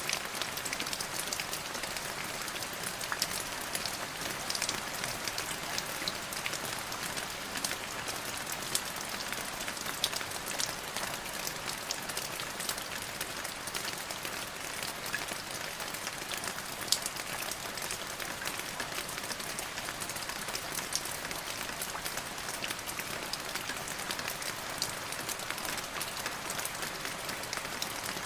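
Steady rain falling on a surface, a constant hiss with many scattered individual drop ticks.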